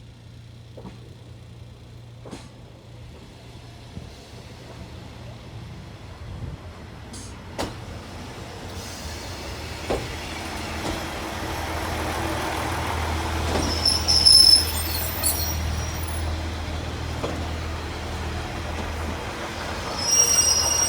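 A heritage train drawing in, its low engine rumble growing steadily louder, with high-pitched brake squeals about two-thirds of the way through and again near the end.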